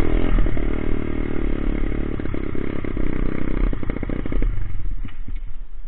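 Coolster Speedmax 125 pit bike's small single-cylinder engine running at a steady speed, then dropping away about four and a half seconds in.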